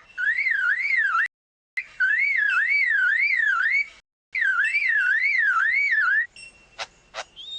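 Superb lyrebird mimicking a car alarm: a whistled tone warbling up and down about two and a half times a second, in three runs broken by short pauses. A couple of sharp clicks follow near the end.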